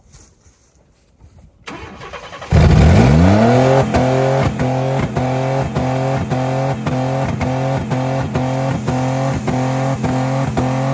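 Stock Chevrolet 4.3 V6 cranking briefly, then catching about two and a half seconds in and revving straight up with the accelerator held to the floor. It then holds at the rev limiter, the limiter cutting the engine about twice a second.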